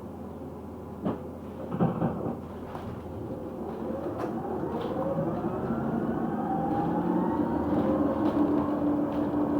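Electric single-deck bus pulling away: a knock about a second in and a short clatter a second later, then the motor's whine rising steadily in pitch as the bus gathers speed and levelling off near the end.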